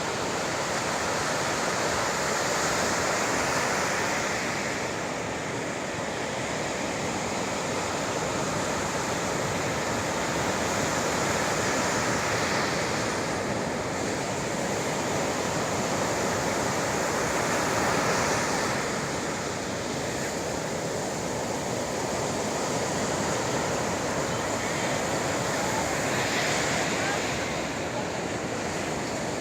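Sea waves breaking and washing ashore, a steady rush of surf that swells and eases every several seconds.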